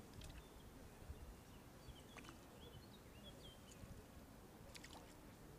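Faint outdoor ambience: a low wind rumble, with a few short bird chirps about two to three seconds in and a few faint clicks.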